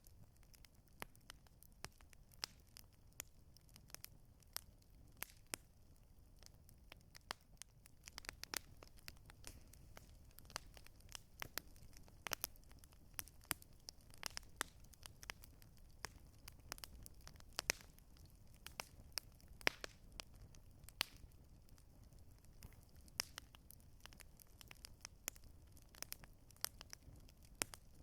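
Campfire crackling: burning wood giving irregular sharp pops and snaps, some much louder than others, over a low steady rumble.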